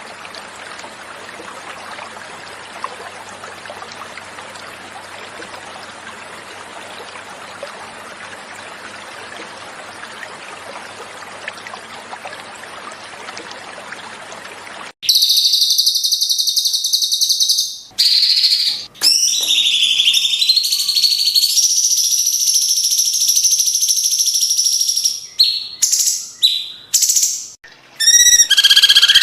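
Flowing water runs as a steady background for about fifteen seconds. It cuts off abruptly into loud, clear cucak cungkok song: high, shrill sustained phrases, broken by a few short gaps near the end.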